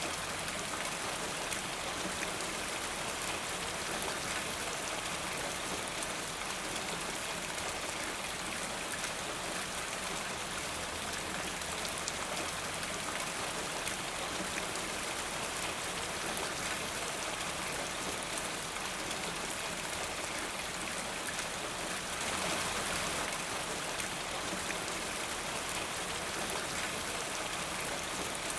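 Steady rain falling, an even hiss with many small drop ticks, swelling slightly about two-thirds of the way through.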